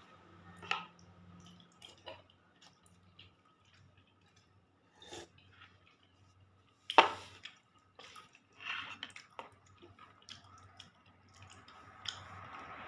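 Scattered spoon clicks against a bowl and wet mouth sounds of someone eating thick mung bean porridge, with one sharp click about seven seconds in.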